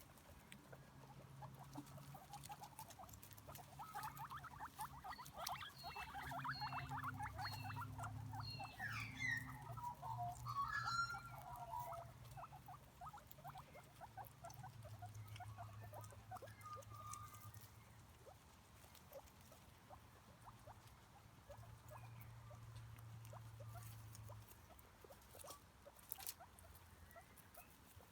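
Rabbits chewing grass: rapid, faint crunching clicks, busiest between about four and twelve seconds in, with short high chirping calls over them in the middle and a low steady hum underneath.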